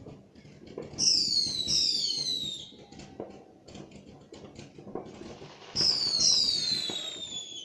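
Whistling fireworks: two pairs of high whistles, about a second in and again near six seconds, each sliding down in pitch over a second or more, over scattered sharp crackling pops.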